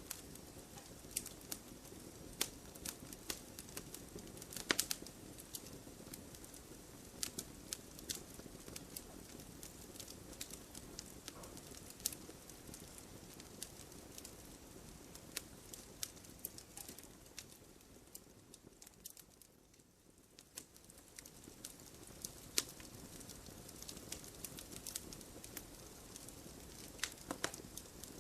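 Wood logs burning in a fireplace: irregular sharp crackles and pops over a low steady hiss, which thins out briefly about two-thirds of the way through.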